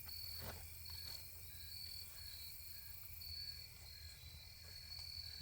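Crickets chirping in a steady, even rhythm, somewhat more than one chirp a second, with a fainter second repeating call lower down and a steady low rumble underneath.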